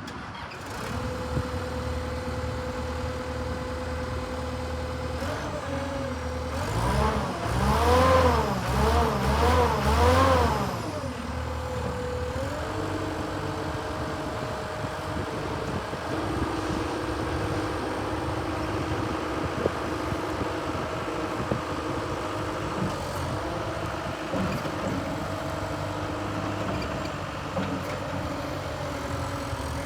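Takeuchi TS70V skid steer's Perkins diesel engine running steadily. About seven seconds in it is revved up and down about four times in quick succession, then settles to a steady, slightly higher speed.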